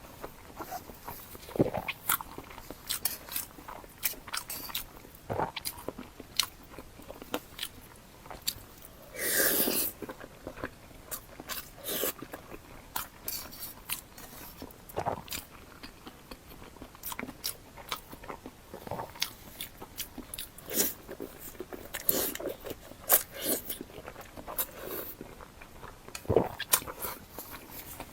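Close-miked eating sounds of a person chewing and biting soft spicy pig brain: wet mouth clicks and smacks come irregularly, several a second, with one longer, louder sound about nine seconds in.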